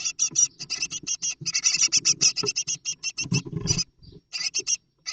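Great tit nestlings begging inside a nest box: a rapid run of short, raspy calls, several a second, with a brief lull near the end. Scrabbling and bumping against the box comes through about three and a half seconds in.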